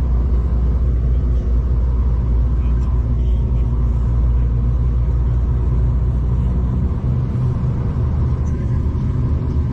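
Steady low rumble of a moving V/Line passenger train heard from inside the carriage, with the deepest part of the rumble easing slightly about seven seconds in.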